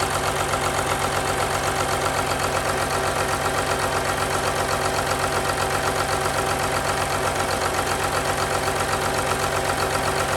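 Rebuilt Caterpillar 3126 inline-six diesel engine idling steadily with an even, rapid pulse, running with the top of its cylinder head open.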